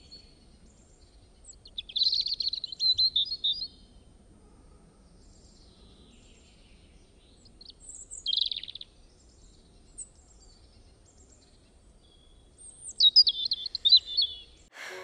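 Songbird singing: three short phrases of rapid high chirps and trills, about two seconds in, about eight seconds in and near the end, with a few faint single chirps between.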